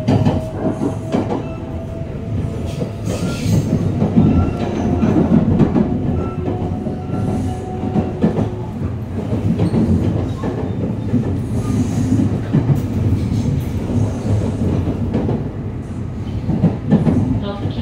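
Running noise of a JR 281-series Haruka limited express heard from inside the car: a steady rumble of wheels on rail with clacks over joints and points. A faint tone rises slowly in pitch through the first half.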